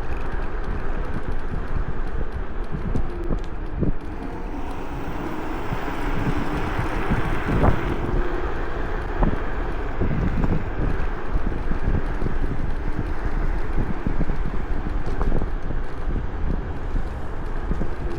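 Wind buffeting a chest-mounted action camera's microphone on a moving electric scooter, with a faint motor whine that drifts up and down in pitch. A few sharp knocks from bumps, the loudest about seven and a half seconds in.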